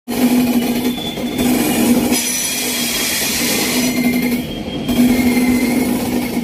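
LHB passenger coaches rolling along the track, a steady noise of wheels on rail with a low hum that comes and goes and thin, high wheel squeals at times.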